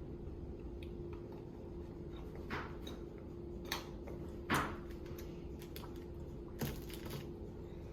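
A few scattered light clicks and rustles from eating and handling food and packaging, the loudest about four and a half seconds in, over a steady low hum.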